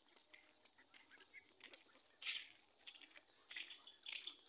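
Near-quiet background with a few short, faint bird calls, one about two seconds in and two more near the end.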